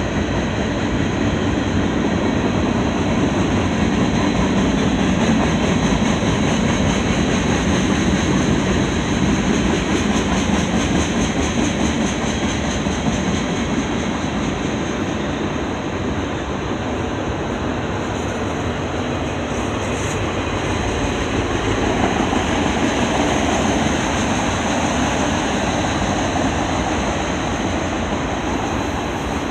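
Freight train rolling past close by: the steady rumble and rattle of steel wheels on the rails, with a faint high ringing running through it.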